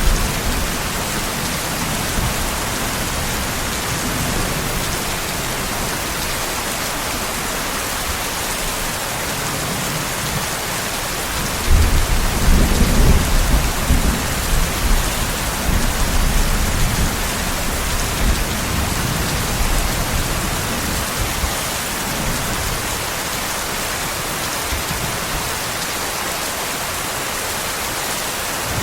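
Steady rain hiss with distant thunder. A low rumble of thunder swells about twelve seconds in and fades away over the following several seconds.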